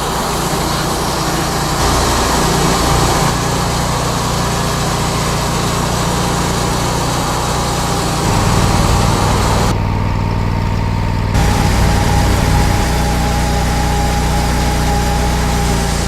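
Wood-Mizer LT40 Hydraulic portable sawmill running, its engine a loud, steady hum with a steady whine over it. The low hum changes abruptly several times.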